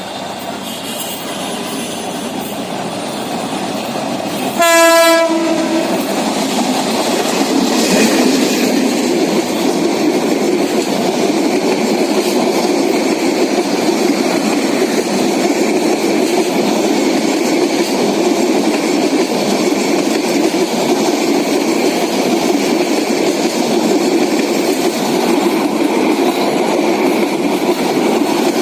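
Passenger train locomotive sounds one short horn blast about five seconds in, then the train rolls by with a steady loud rumble and wheel clatter on the rails.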